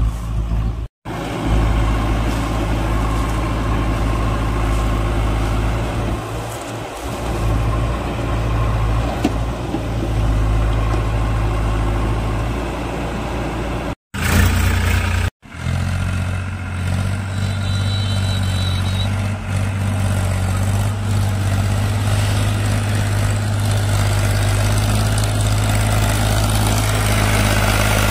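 Diesel engine running steadily with a low, even hum, broken by three brief silent gaps.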